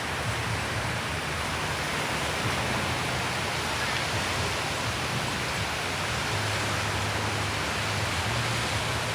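Steady rushing wash of sea surf at a beach, even and unbroken, with a faint low hum underneath.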